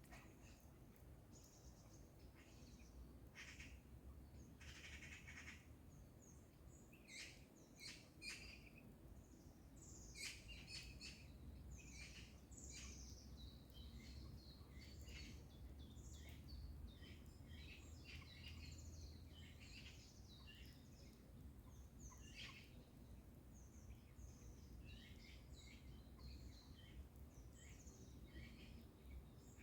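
Faint birdsong: many short chirps and calls from several birds, overlapping throughout.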